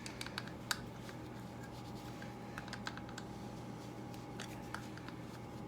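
Scattered, irregular light clicks and taps of a hand tool, a 10mm wrench or socket, working fasteners on a motorcycle's carburettor assembly, over a faint steady hum.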